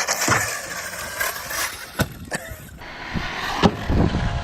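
Electric RC stunt truck (ARRMA Outcast 6S EXB) running on a brushless motor, its whine rising as it accelerates, with sharp knocks about two seconds in and again near the end and rough tyre-and-ground noise building toward the end.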